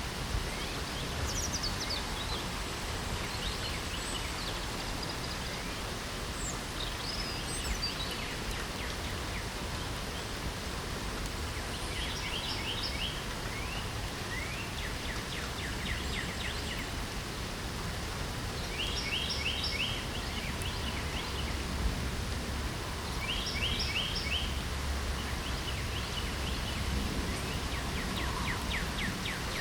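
Steady light rain hissing, with birds singing over it: short, fast, high-pitched trilled phrases repeated every few seconds, and a few falling whistled notes.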